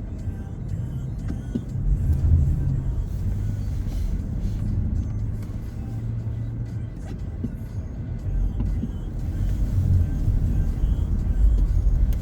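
Car driving: a low, steady rumble of engine and road noise.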